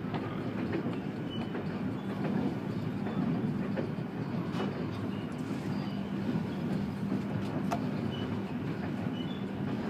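Passenger train running along the track, heard from inside the carriage: a steady rumble of wheels on rails with a constant low hum and a few scattered clicks.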